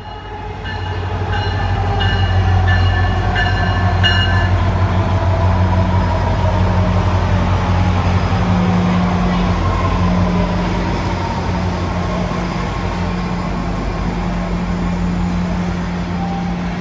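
A MARC commuter train with a diesel locomotive passing close by. The engine gives a steady low drone, with train noise over it. A repeating ringing tone sounds rapidly for the first four seconds, and a faint whine slowly falls in pitch.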